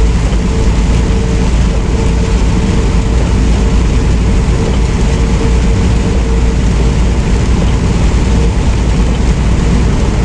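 Semi truck driving, heard from inside the cab: a steady, loud road and engine noise with a heavy low rumble.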